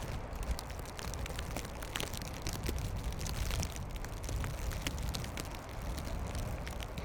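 Blizzard wind buffeting the microphone in a steady low rumble, with many irregular sharp ticks throughout.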